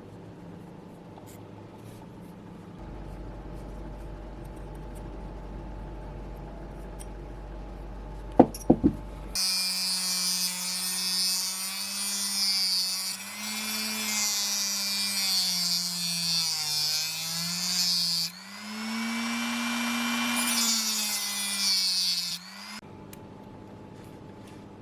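A small electric power tool cutting or grinding, its motor note sagging and recovering as the load changes, over a strong hissing cutting noise; it starts and stops abruptly. Before it, a few sharp clicks.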